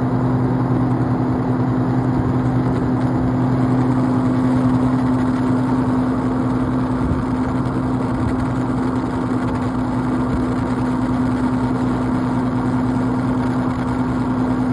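A vehicle engine idling as a steady, even hum that holds one pitch, with no rise or fall.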